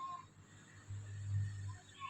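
Indian ringneck parrot giving two brief soft chirps between its words, one at the start and a short falling one near the end, with a low steady hum for under a second in between.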